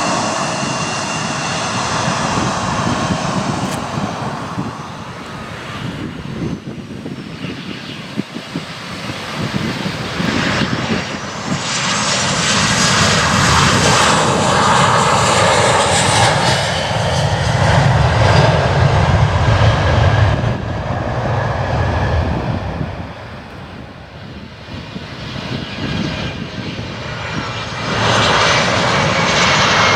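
Jet aircraft engines running close by, with a turbine whine that climbs about eleven seconds in and a loud low rumble that peaks and then drops away past the twenty-second mark, before the engine noise builds again near the end.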